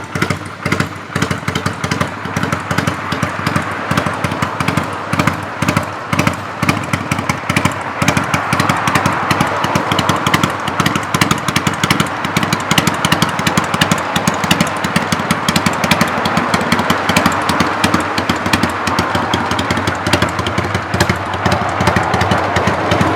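Kawasaki Vulcan 400 custom's V-twin engine running at idle, a steady run of rapid exhaust pulses, more uneven in the first several seconds.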